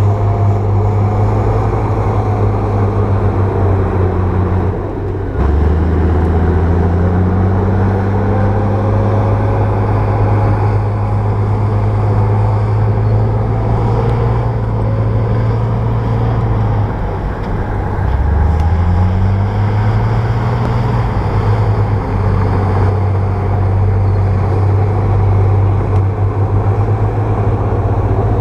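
Bulldozer's diesel engine running steadily; twice its note drops and then climbs back up.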